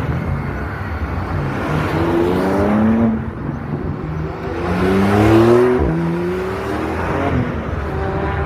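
Supercar engines revving and accelerating hard. The engine note climbs twice, drops sharply at a gear change about six seconds in, then climbs again.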